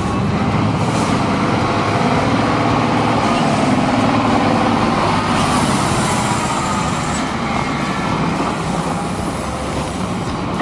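Heavy diesel engine running steadily under load, its pitch wavering slightly.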